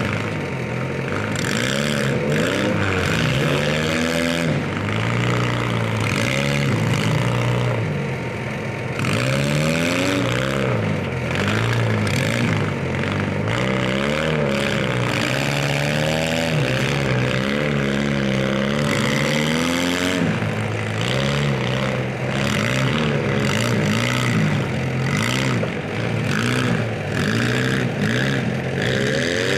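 Several stock compact demolition derby cars' engines revving up and down over and over, their pitches rising and falling against each other, with scattered short knocks of metal.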